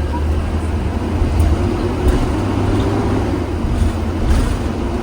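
2020 Blue Bird Vision school bus under way, heard from inside the cabin: a steady low engine drone with road noise and a few faint rattles.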